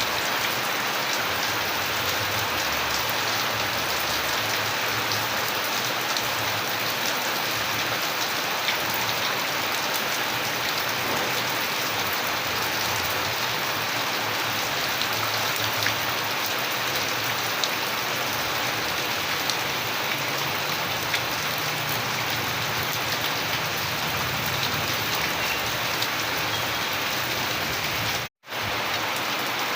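Steady rain falling, an even hiss with scattered sharper drop ticks. Near the end the sound drops out to silence for a split second and then resumes.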